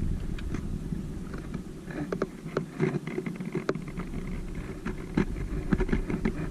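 Flooded river rushing fast and high, heard as a steady low rumble that eases a couple of seconds in and builds again near the end, with scattered short sharp ticks and clicks over it.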